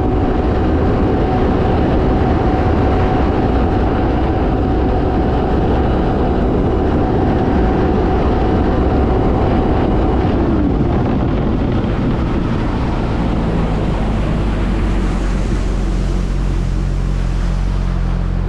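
Supercharged four-cylinder engine of a 2022 Kawasaki Ultra 310 jet ski running at full throttle on a speed run, with wind and water noise. The jet ski is on its factory speed-limited ECU, which pulls boost back from about 14.5 to 11.5 psi. About ten seconds in the engine note falls as the throttle comes off, and the engine settles to a lower, steady note.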